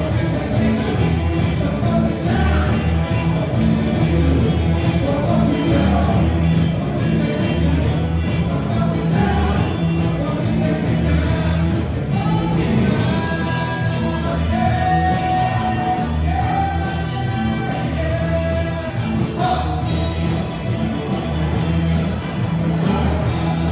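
Rock band playing live with a singer over a steady drumbeat, with a few long held vocal notes in the middle.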